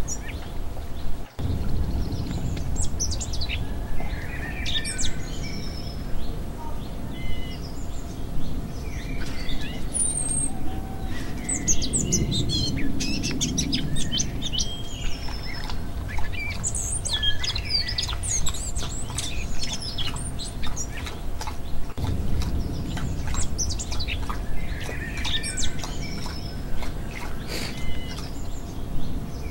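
Several birds chirping and singing, short calls and trills overlapping, over a steady low rumble. The sound cuts out briefly about a second in.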